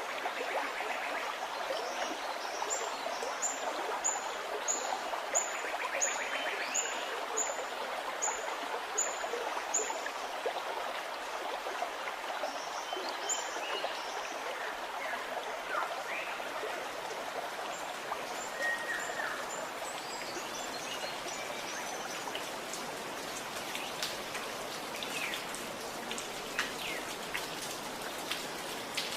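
Gurgling running water with birds singing over it. In the first ten seconds a bird repeats a short, high note about twice a second, a dozen times; other chirps follow. Toward the end, light dripping ticks rise above the flow.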